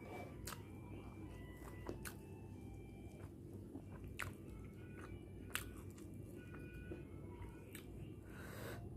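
A person chewing and biting food, with a few scattered sharp clicks from the mouth or the plate.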